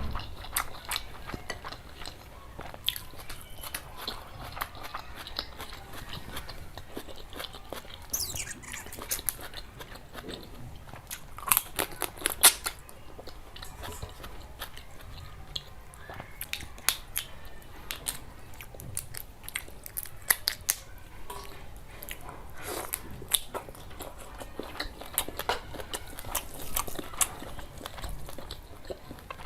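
Close-miked eating: a person biting and chewing curry with rice, with irregular wet mouth clicks and occasional sharper crunches, the loudest a cluster about twelve seconds in.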